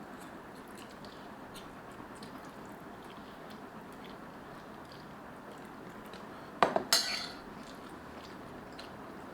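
Eating utensils clinking against a dish, with faint small clicks throughout. About two-thirds of the way in, two or three loud, sharp knocks with a short ring stand out over a steady background hiss.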